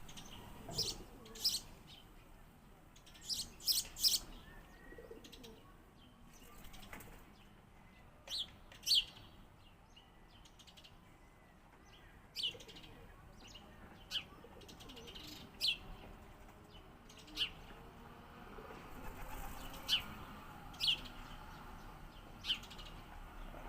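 Sparrow chirping: short, sharp chirps repeated every second or two, sometimes two or three in quick succession.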